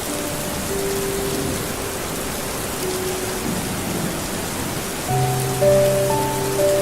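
Steady rain falling, an even hiss of drops, with soft held musical notes over it; a deeper note and a few higher ones come in about five seconds in.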